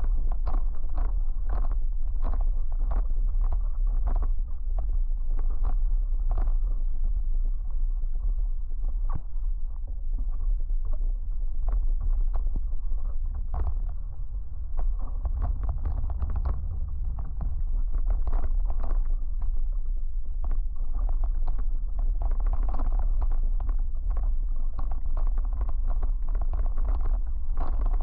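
Wind buffeting the microphone with a steady low rumble, over water splashing and slapping against the hulls of a Hobie 16 catamaran under sail, in many short irregular splashes.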